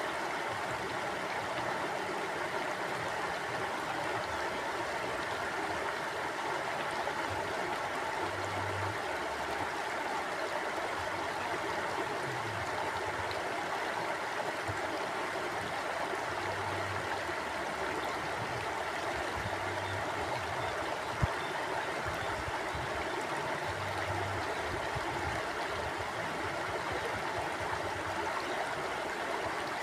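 Stream or small river flowing steadily, a continuous even rush of water with some gurgling. A single sharp click about two-thirds of the way through.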